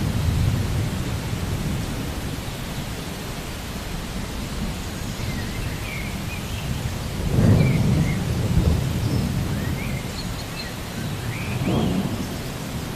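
Thunderstorm ambience: steady rain with a low rolling rumble of thunder that swells about seven and a half seconds in and again, more weakly, near the end.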